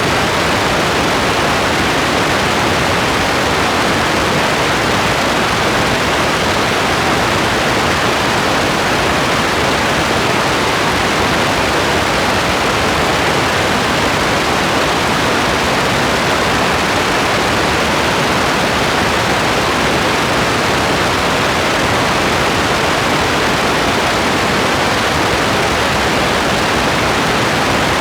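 Steady rain, an even unbroken hiss with no single drops, thunder or other events standing out.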